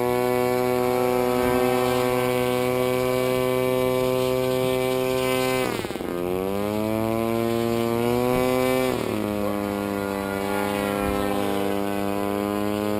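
Electric motor and propeller of an RC model airplane running in flight, with a steady whine. Its pitch drops sharply and climbs back about six seconds in and again near nine seconds, as the throttle is cut and reopened.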